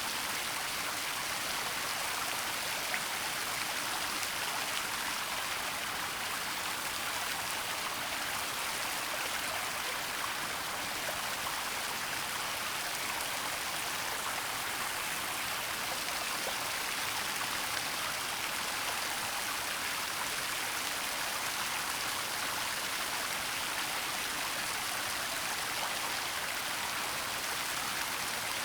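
Waterfall and flowing stream giving a steady, even rush of falling water with a fine spattering hiss.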